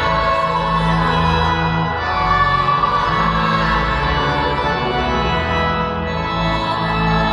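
Church organ playing slow, sustained chords, the liturgical music between the readings and the Gospel.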